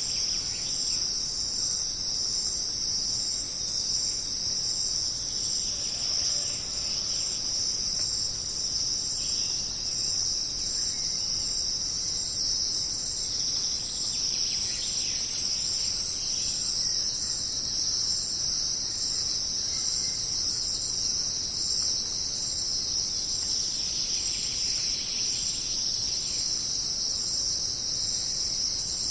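A dense, steady, high-pitched chorus of jungle insects, crickets trilling without pause. A lower buzzing swells up and fades away three times.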